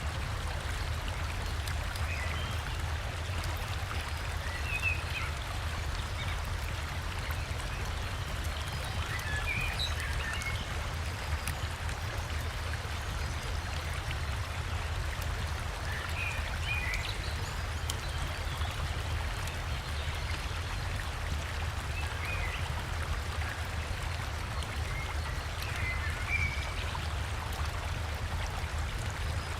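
Steady rushing and splashing of a forest river and small waterfall, with a deep low rumble underneath. Faint, brief bird chirps come through every few seconds.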